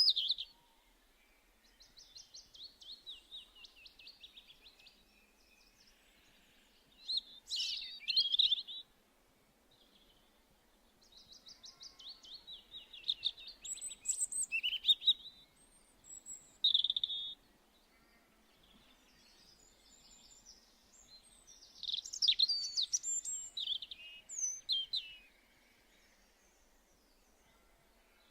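Small songbirds singing and calling in high, rapid trilled phrases, coming in several bursts a few seconds apart with quiet gaps between.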